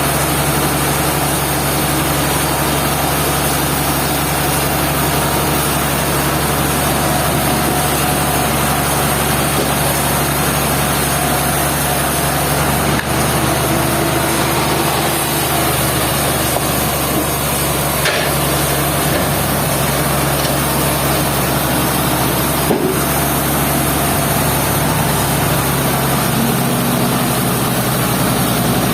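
Sawmill machinery running steadily with a constant low hum, with a few faint clicks.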